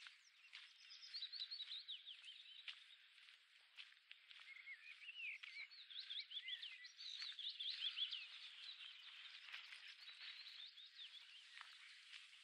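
Faint woodland birdsong: several small birds singing quick runs of rising and falling chirps and trills over a steady soft hiss.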